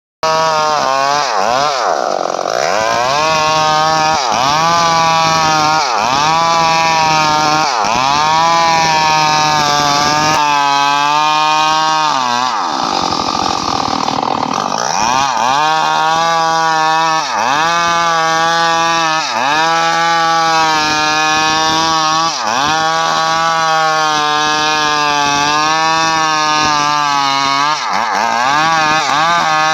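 Stihl MS 381 two-stroke chainsaw engine running hard under load while cutting wood, its pitch rising and falling in repeated swells about every two seconds, with a rougher stretch about halfway through.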